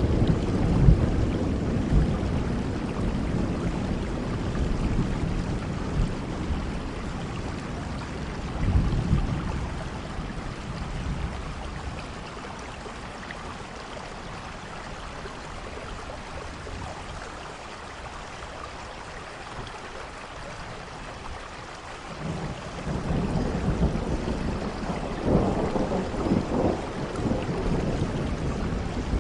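Steady rain falling, with rolling thunder: a low rumble fading over the first seconds, another swell about nine seconds in, and a renewed rumble building from about two-thirds of the way through to the end.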